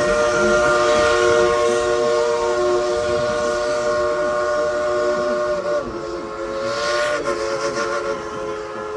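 Steam locomotive's chime whistle sounding one long chord of several tones. The chord dips briefly twice in the second half.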